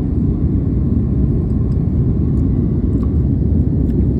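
Steady low rumble of an airliner's cabin noise, the engines and airflow heard from inside the cabin.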